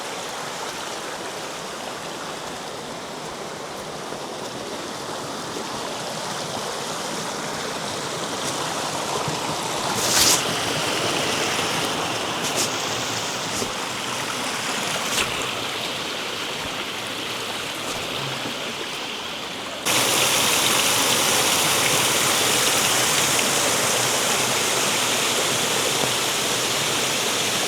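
Creek water rushing steadily over rocks, with a few brief knocks along the way. About two-thirds through it jumps suddenly to a louder, fuller rush of falling water, as of a waterfall close by.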